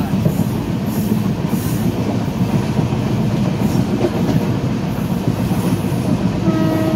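Passenger train running at speed, heard from the open doorway of a coach: steady low rumble of wheels on the rails. A steady tone with overtones comes in near the end.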